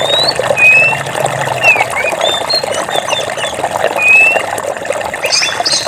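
Running stream water trickling and bubbling steadily, with birds calling over it in short sliding whistled notes. A quick run of chirps comes in near the end.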